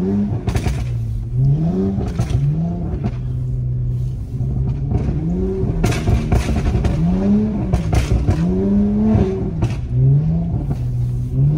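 Car engine revving up and dropping back again and again in short throttle blips, about eight times, as the car's rear end slides out on snow. Scattered knocks come with it.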